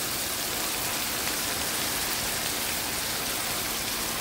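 Chopped kale sizzling in hot oil with fried onions in a frying pan as it is stirred in, a steady hiss.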